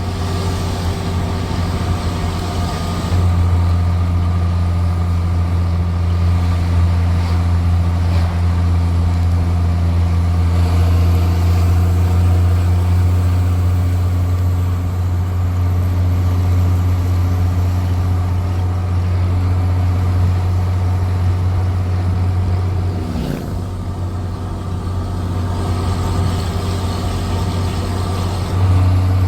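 Straight-piped Cummins C8.3 inline-six diesel in a school bus, running steadily with a loud, deep exhaust drone. It grows louder about three seconds in, dips briefly a little past twenty seconds, and picks up again near the end.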